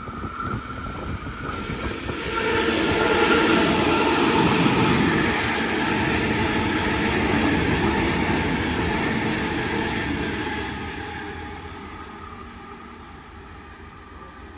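Double-deck electric passenger train passing through the station without stopping. Its running noise builds over about two seconds, holds loud for several seconds, then fades as it moves away about ten seconds in.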